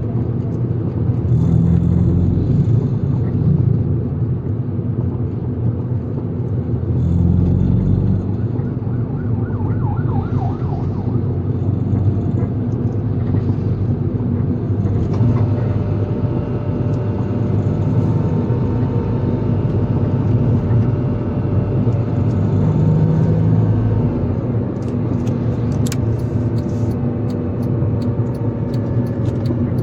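A road vehicle driving with a steady engine and road rumble that swells a little now and then. A series of light clicks comes in near the end.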